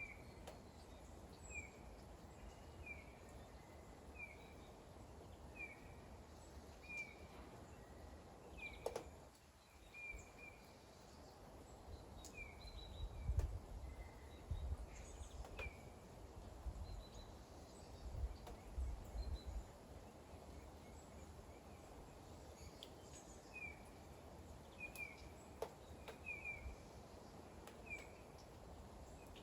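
Light rain with scattered sharp drips, while a bird repeats a short chirp roughly once a second, stopping for a few seconds in the middle. Low rumbles come and go about halfway through.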